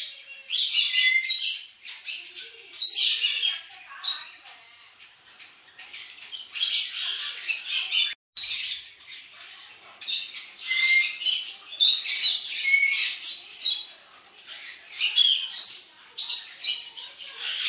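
Small birds chirping and chattering in repeated bursts of about a second each. The sound drops out briefly about eight seconds in.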